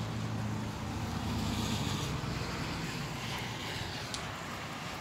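Rain falling and wind blowing as a steady hiss, with a low hum underneath that fades out about two seconds in.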